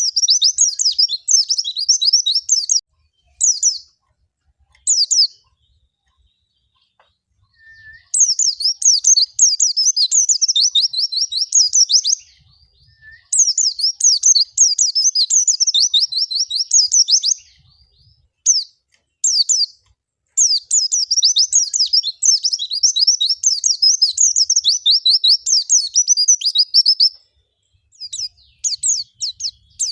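White-eye (pleci) song from a lure recording for caged white-eyes: long, rapid, high twittering warbles sung in phrases several seconds long. There is a pause of a few seconds after the first phrases and a shorter one near the end.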